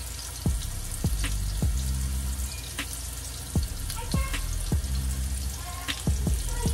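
Raw meatballs sizzling in hot oil in a skillet as they are set into the pan one by one, a steady frying hiss. A run of low thumps recurs roughly every half second.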